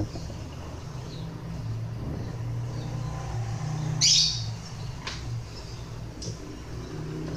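Bird chirping: a loud high chirp about four seconds in, then two short ones, over a steady low hum.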